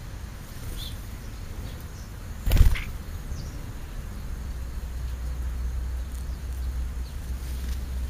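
A few faint, short bird chirps over a steady low rumble, with one brief loud whoosh about two and a half seconds in.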